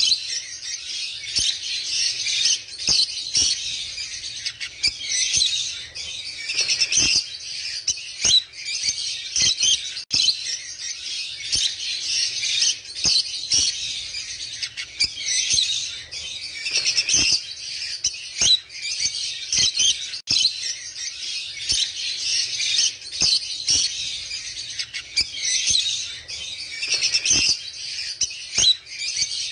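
Dense, continuous chirping of many small birds, with frequent short clicks mixed in.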